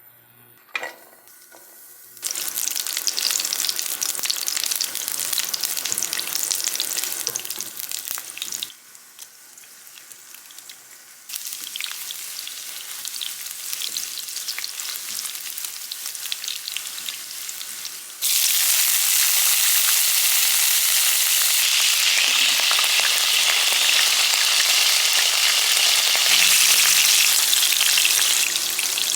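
Food frying in a hot pan, sizzling steadily. It dips briefly and comes back, then sizzles louder and more evenly from about two-thirds of the way through.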